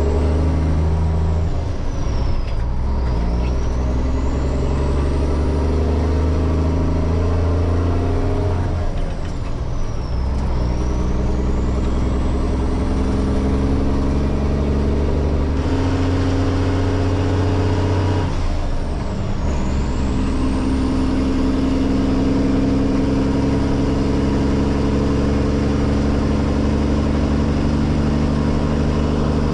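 Diesel engine of a loaded 1994 Mack grain truck pulling away and shifting up through the gears, heard from the cab: the engine note climbs, dips briefly at each of about four shifts, then settles into a steady cruise. A high whine falls into each shift and climbs again with the revs.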